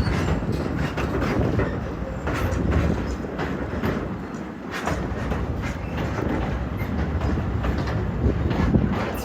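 Railroad train running on the track: a steady low rumble with frequent sharp clacks and knocks from the wheels and cars, easing off briefly around the middle.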